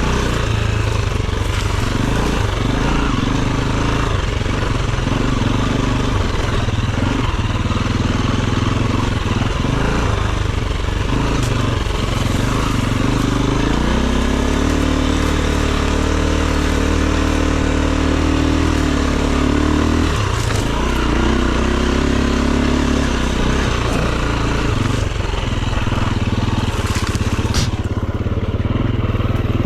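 Enduro dirt bike engine running under load, its revs rising and falling with throttle and gear changes, with a longer steady pull about halfway through. A few sharp clicks near the end.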